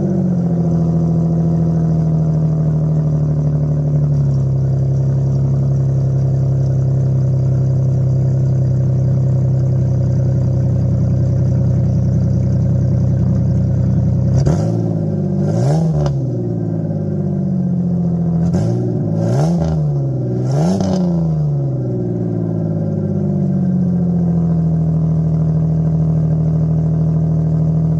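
Ford Ranger engine exhausting through a bed-mounted stack pipe, running just after a cold start: a high fast idle that drops to a lower idle about four seconds in, then four quick revs around the middle before it settles back to a steady idle.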